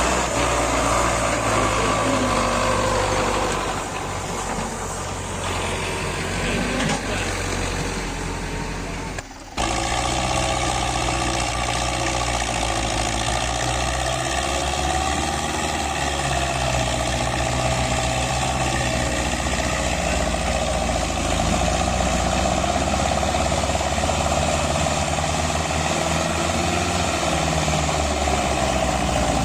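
Diesel tractor engines running steadily and hard, pulling against each other in a tractor tug-of-war. The sound cuts out for a moment about nine seconds in.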